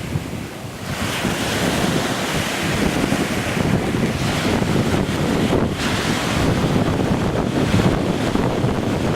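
Wind buffeting the microphone over a steady rush of water, growing louder about a second in.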